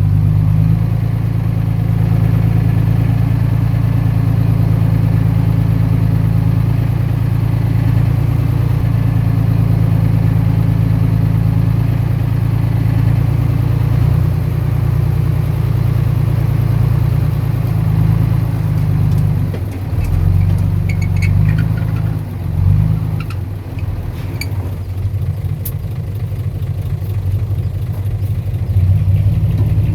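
Heavy diesel engine of earthmoving machinery running at a steady, low drone. In the second half the engine note wavers and there are scattered metallic clanks and clatter.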